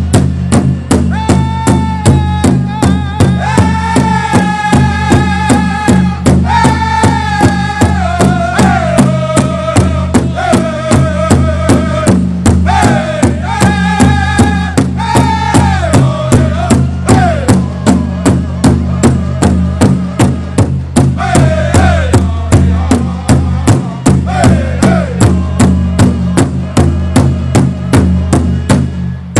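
Powwow drum group: a large powwow drum beaten in a steady beat, about two and a half strokes a second, with high-pitched singing in falling phrases over it. The singing drops out for a few seconds past the middle while the drum keeps going.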